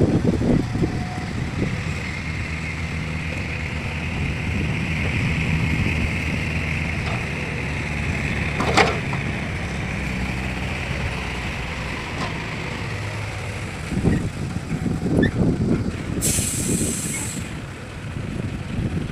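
Heavy truck engine running steadily, with a single sharp click about halfway through and a short, high hiss of released air, like an air-brake release, near the end.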